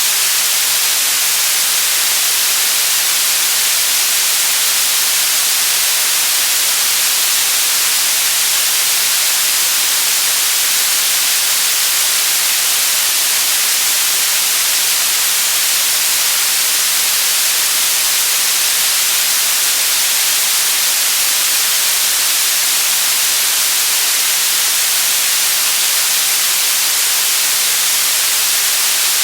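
Electronically generated white noise: a steady, even hiss, bright and high-pitched, with no change in level.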